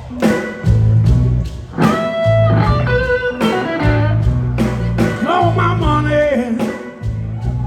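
Live blues-rock band playing: guitar with bent notes over bass and drums.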